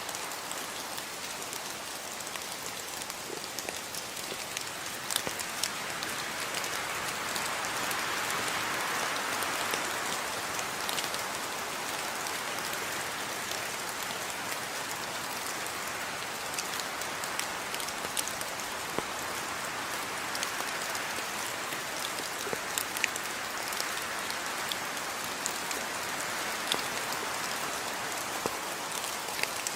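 Steady rain falling, an even hiss with many individual drops ticking sharply on a hard surface. The rain swells a little about a third of the way in.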